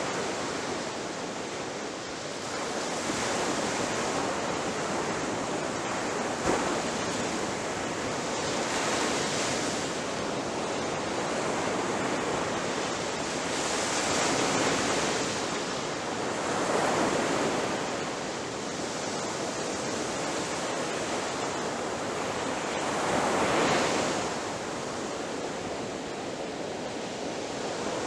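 Ocean surf: waves breaking and washing on the shore in a continuous rush, swelling louder every few seconds as each wave crashes, with one brief sharp splash about six seconds in.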